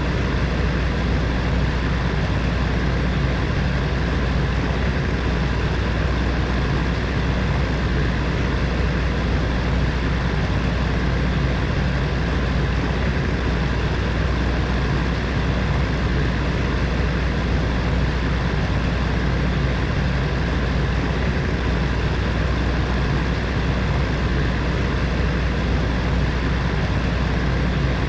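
Heater fan running steadily: an even, deep rushing hum of air and motor that doesn't change.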